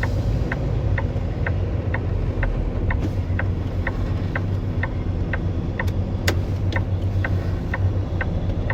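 Semi-truck hazard flasher clicking steadily about twice a second inside the cab, over the low, steady running of the truck's diesel engine at slow maneuvering speed. One sharper click about six seconds in.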